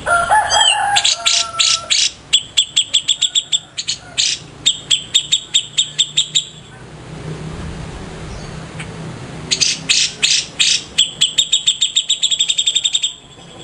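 Cica jenggot songbird singing two long bursts of rapid, evenly repeated high chirps, several a second, with a short pause between them. A few slurred whistled notes open the song.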